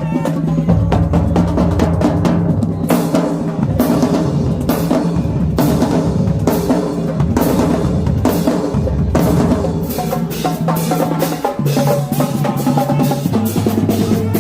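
High school marching band playing, with the drumline's snare and bass drums striking hard over held low brass bass notes that shift every second or two.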